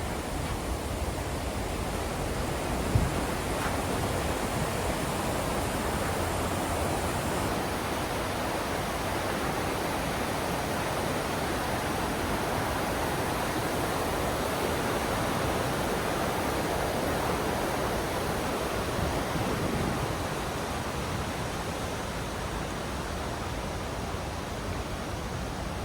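Steady rushing noise of the Iguazu Falls' water, with one brief knock about three seconds in.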